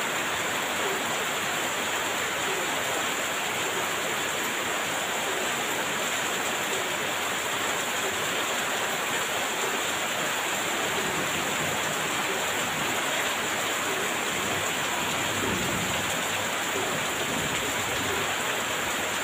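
Heavy rain pouring down, a steady, unbroken hiss of downpour.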